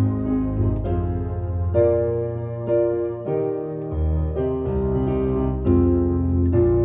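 Keyboard playing a slow run of sustained chords over low bass notes, the chords changing about once a second.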